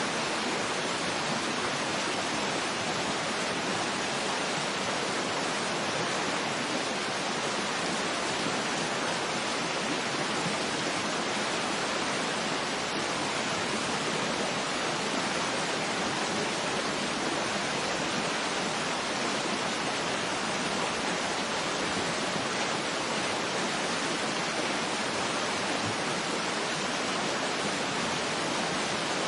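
Waterfall rushing: a steady, even hiss of falling water with little deep rumble, unchanging throughout.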